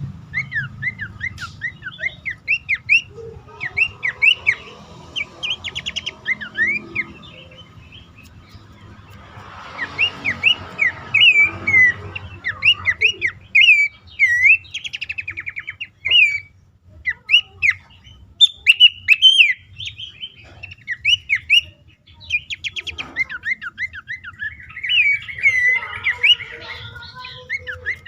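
Pelanduk semak babbler calling: rapid runs of short, clear whistled notes that rise and fall in pitch, in bursts broken by brief pauses, over a low steady background hum.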